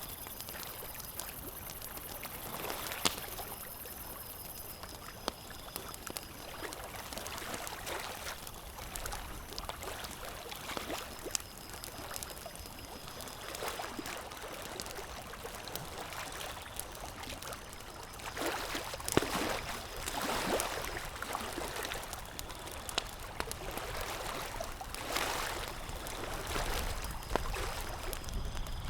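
Campfire crackling, with frequent short sharp pops, over a steady wash of lake water lapping that swells louder about two-thirds of the way in.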